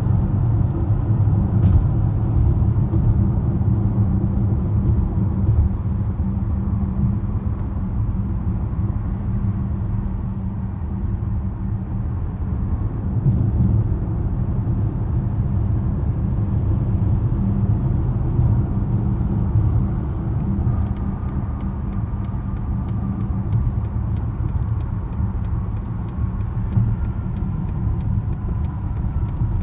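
2020 BMW X5 (G05) cruising, with a steady low rumble of engine and road noise and small faint ticks now and then.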